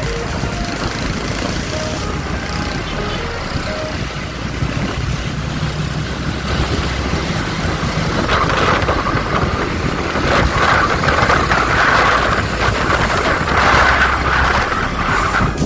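Motor vehicle running, a steady engine and road rumble that grows louder and rougher about halfway through.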